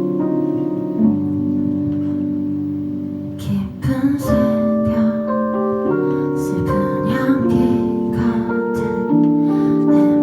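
Instrumental intro of a song: held keyboard chords, joined about three and a half seconds in by a strummed guitar playing a steady rhythm.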